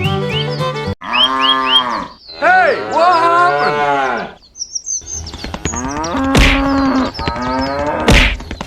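Cattle mooing: three long, drawn-out moos one after another, with two sharp knocks near the end.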